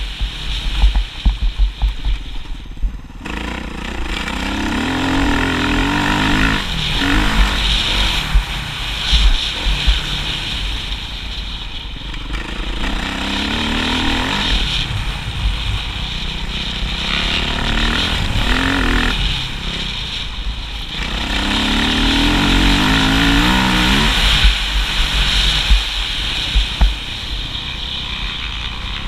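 Motocross motorcycle engine running hard, its pitch climbing and dropping back over and over as the throttle is opened and closed.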